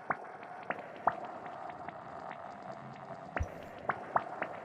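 Serum software synthesizer patch built on a crackly noise-oscillator sample through a resonant filter: irregular droplet-like clicks over a soft, steady ringing hiss.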